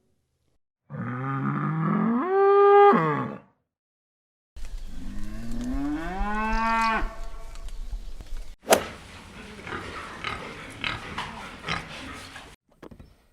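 Bull mooing: two long bellows, each rising in pitch and then holding. A sharp click follows, then a rougher, noisier stretch of scattered sounds.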